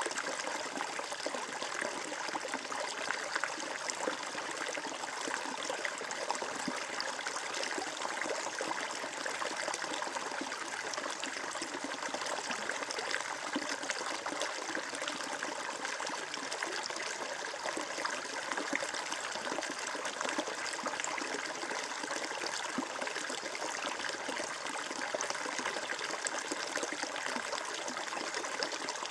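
Water flowing and trickling steadily, a constant splashing rush with no change or single events.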